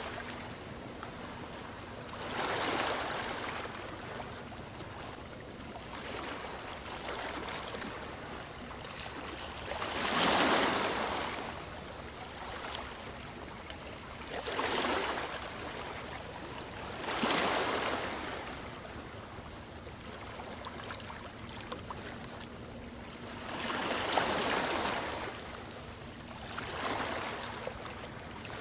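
Ocean waves washing onto a shore: a steady wash of water with about six louder surges, each swelling and fading over a second or two, the loudest about ten seconds in.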